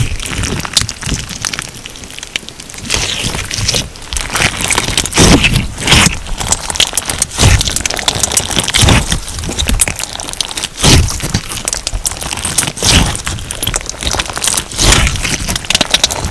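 Crunchy slime packed with sugar beads being squeezed and pressed by hand: dense crackling and popping of the beads, with a louder crunching squeeze every second or two.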